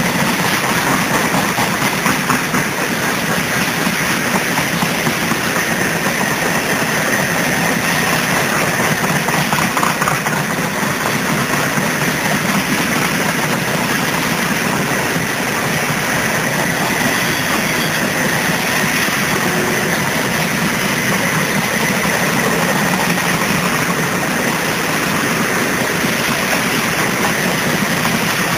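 Covered hopper cars of a loaded grain train rolling past: steady rumble of steel wheels on the rails, with a faint high steady tone over it.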